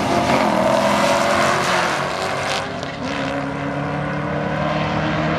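Car engines running loudly at a drag strip, with a rough rush of noise over the first two and a half seconds that then drops to a steadier engine note.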